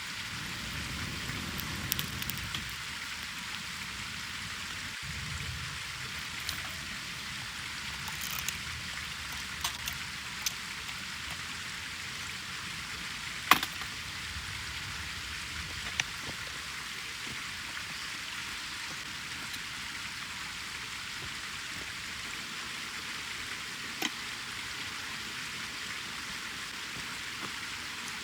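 Wood campfire burning with a steady hiss and occasional sharp crackles and pops at irregular moments, the loudest pop about halfway through.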